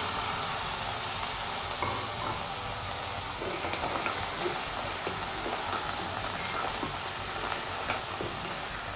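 Clams in their shells sizzling in hot oil with browned garlic in a nonstick wok: a steady frying hiss, with a few light knocks as a spatula stirs them.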